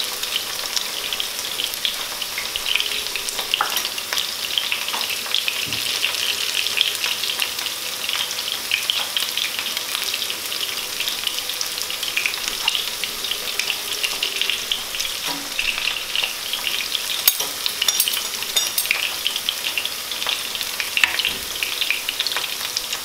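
Potato rounds frying in hot olive oil in a frying pan, a steady sizzle with a constant fine crackle of small pops, as they brown on their first side.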